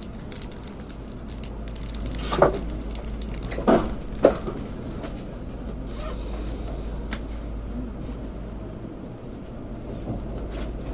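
Steady low hum inside a Tokaido Shinkansen car, with three short knocks between about two and four and a half seconds in.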